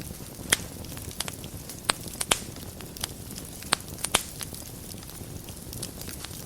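Fire crackling in a fireplace: sharp, irregular pops and snaps over a steady low rumble of the flames.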